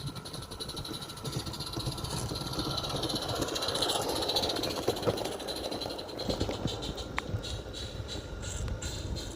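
A live-steam 16mm-scale model locomotive running on a garden railway, its exhaust and wheels making a steady rushing, rapidly pulsing sound. It grows louder toward a peak about four seconds in and then fades, as it passes by.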